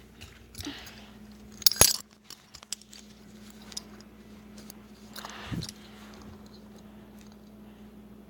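Light metallic jingling and clinking with a few handling rustles, a sharp clack about two seconds in, and a dull thump a little past the middle.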